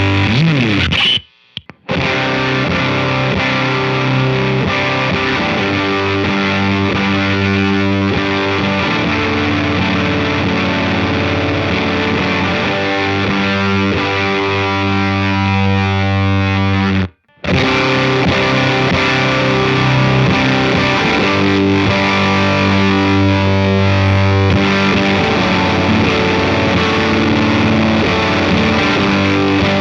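Electric guitar playing riffs through a JHS Kilt overdrive pedal with both gain switches on for its fuzz setting, into a Walrus Audio ACS1 amp simulator, giving a thick distorted tone. The playing breaks off twice for a moment, about a second and a half in and again a little past halfway.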